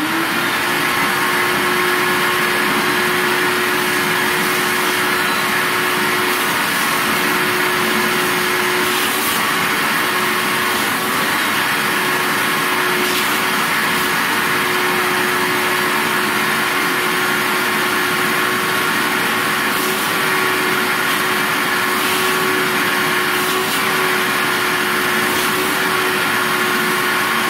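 Vacuum cleaner switched on, its motor spinning up quickly and then running steadily with a constant whine and rush of air while it cleans out the cage's bottom tray.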